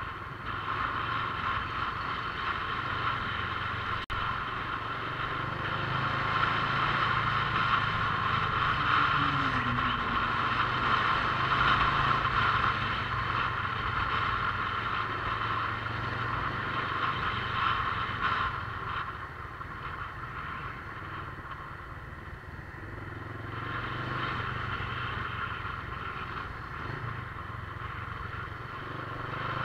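Motorcycle engine running steadily under way, easing off and growing quieter for a few seconds past the middle before picking up again.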